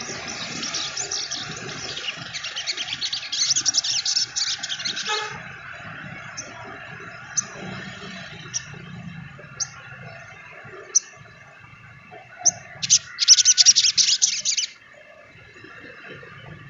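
A sogon trotol sunbird singing in a rapid, high-pitched chattering song for about five seconds. It then gives single sharp chirps roughly once a second, and breaks into another fast burst of chatter near the end.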